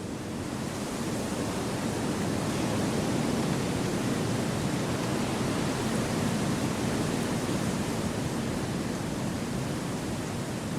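Wind rushing through a forest as a steady, even hiss, swelling slightly over the first few seconds and then holding.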